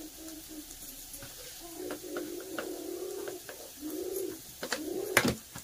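Low cooing calls of a bird, a run of short arching notes starting about two seconds in, with a sharp click near the end.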